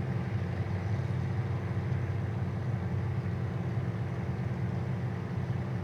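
Several demolition derby cars' engines idling together, a steady low-pitched mechanical drone, while the cars sit stopped under a red flag.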